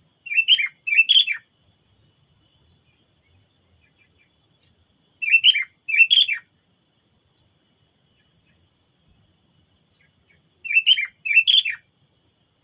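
Sooty-headed bulbul (kutilang) calling: a short two-part chirping phrase repeated three times, about five seconds apart.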